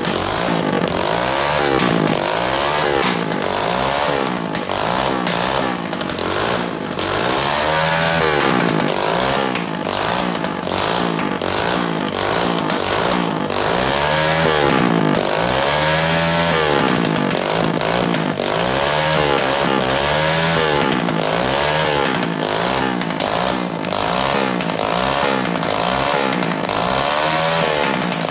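Small single-cylinder pit bike engine revved hard over and over, its pitch climbing and falling back every few seconds, with sharp crackles running through it.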